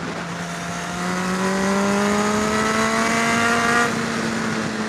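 Honda CBR600RR's inline-four engine accelerating, its pitch rising steadily for about three seconds, then dropping off suddenly about four seconds in.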